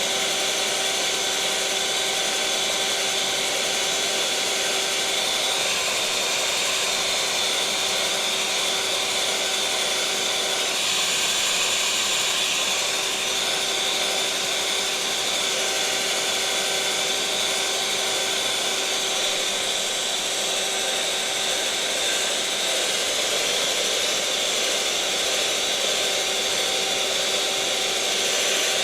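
Electric mixer motor running steadily at one speed: a continuous whirring hum with an even hiss over it.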